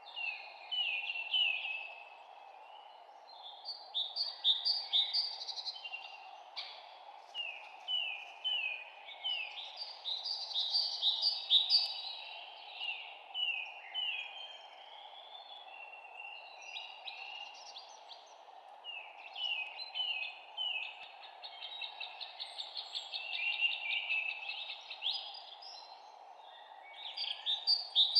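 Songbirds singing in bursts of quick, repeated downward-sliding chirps, phrase after phrase, over a steady low background hum.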